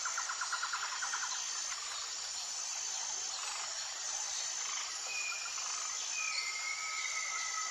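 Tropical forest ambience: a steady high chorus of insects with a repeating shrill trill. A rapid pulsed call comes in the first second, and long whistled bird notes start about five seconds in.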